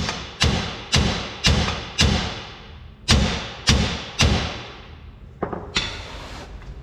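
Hammer blows on metal, about two a second, each ringing briefly after the hit. Four strikes, a short pause, three more, then a few lighter knocks near the end.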